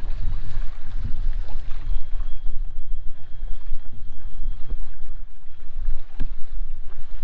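Wind buffeting the microphone on a kayak out on open water, a heavy low rumble, with a few light knocks and a sharper one about six seconds in.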